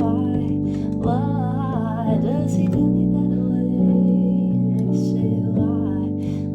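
Music: an acoustic guitar plays held chords under a woman's voice singing a wavering melody, which comes in about a second in and fades after a couple of seconds.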